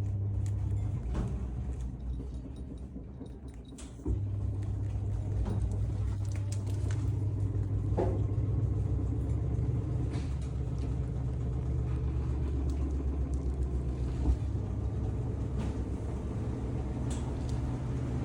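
A steady low mechanical rumble with a hum, like an engine running, which dips a second or so in and comes back louder about four seconds in; a few faint clicks and knocks sound over it.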